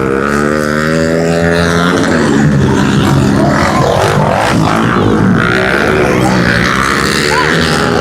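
Several pit bike engines racing, revving up and down as riders work through the gears. One engine's pitch dips and then climbs in the first couple of seconds, then a mix of engines rises and falls together.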